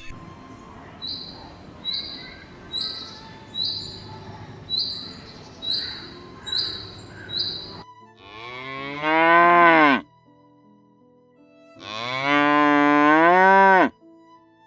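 A cow mooing twice, two long calls of about two seconds each that drop in pitch at the end. Before them, a short high chirp repeats about once a second over a background hiss.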